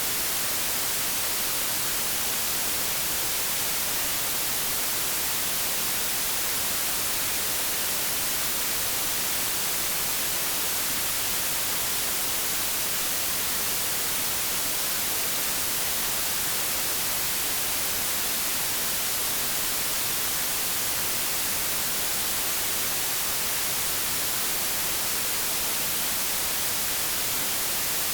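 Continuous white-noise static, a steady hiss with no change in level and most of its energy in the high treble.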